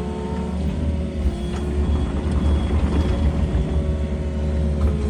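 Excavator's diesel engine running steadily, a low drone with a higher steady whine over it.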